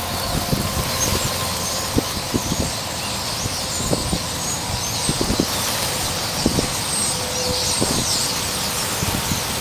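A large flock of roosting birds, which the recordist takes for starlings, chattering and squealing together in a dense run of many overlapping high calls. Irregular low knocks and a rumble sit under it.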